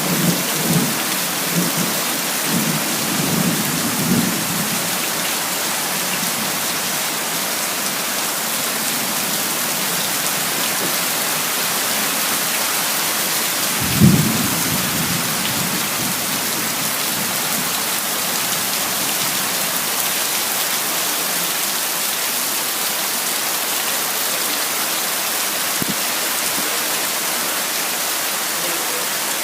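Heavy rain falling steadily, with low thunder rumbling in the first few seconds and a sudden louder thunderclap about fourteen seconds in that rolls away over a couple of seconds.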